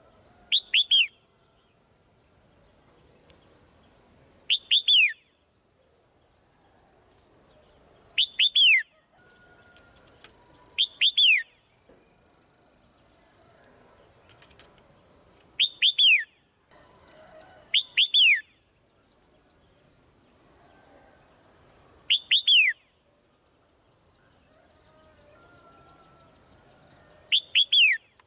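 Swallow calling: eight short bursts of two or three quick, high chirps, each note sliding downward, repeated every few seconds.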